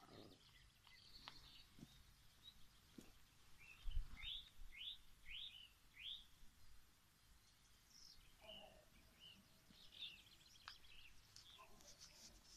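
Near silence with faint bird calls: a run of four quick chirps about four seconds in, and more scattered calls later. A brief low thump about four seconds in is the loudest sound.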